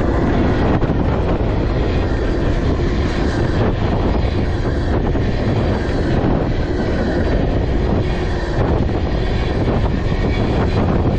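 Freight train tank cars rolling past close by: a loud, steady rumble of steel wheels on the rails.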